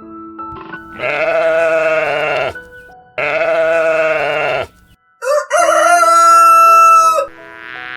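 Three long animal calls, one after another, the third higher and brighter, over background music with held notes.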